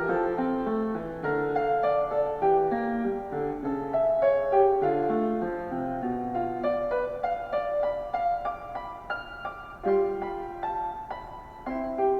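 Background music: a gentle piano melody.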